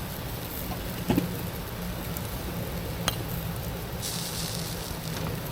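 Wood campfire crackling with a few sharp pops, over a steady low rumble; a high hiss comes in about four seconds in.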